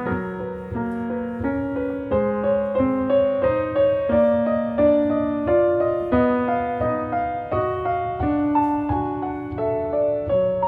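Background piano music: a soft melody of separate notes, each struck and fading, about two or three a second.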